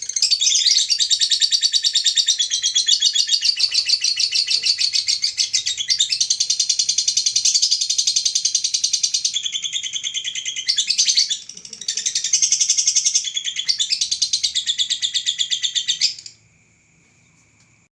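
Lovebird in a long ngekek: a continuous, rapid chattering trill of fast repeated high notes, going on for about sixteen seconds with a brief break about eleven seconds in, then stopping abruptly.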